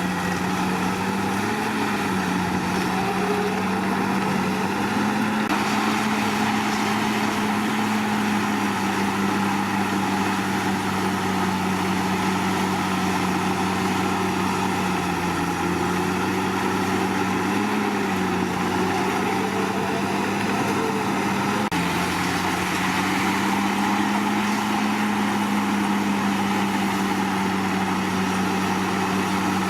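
Komatsu D61PX bulldozer's diesel engine running steadily under working load, its pitch dipping and rising slightly every few seconds.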